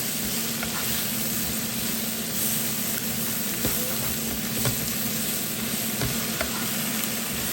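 Mushrooms, onion and bell pepper sizzling in butter in a frying pan while being stirred, with a utensil clicking against the pan a few times. A steady low hum runs underneath.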